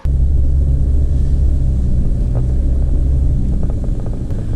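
Car driving slowly: a steady, loud low rumble of engine and road noise with a few steady low engine tones.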